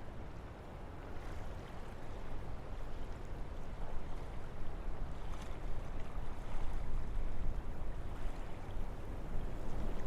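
Wind blowing through forest trees: a steady rushing that swells a little after the first couple of seconds.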